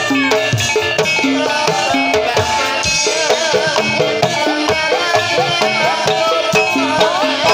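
Javanese gamelan music accompanying a kuda kepang horse dance: kendang drums and struck bronze metallophones playing a steady repeating pattern, with a wavering melody line coming in over them about three seconds in.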